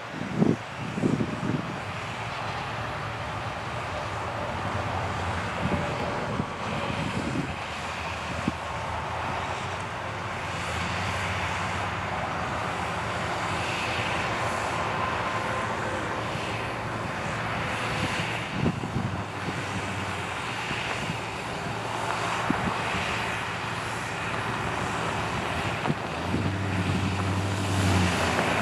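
John Deere 8300 tractor's six-cylinder turbo diesel running steadily under load while cultivating, with a few knocks about a second in. The engine drone grows deeper and louder near the end.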